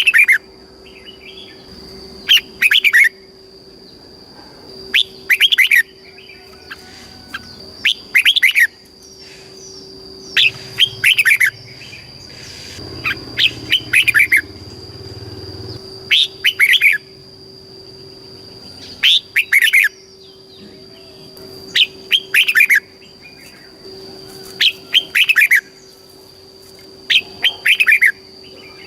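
Red-whiskered bulbul singing: short phrases of quick falling notes, repeated every two to three seconds, over a faint steady high whine.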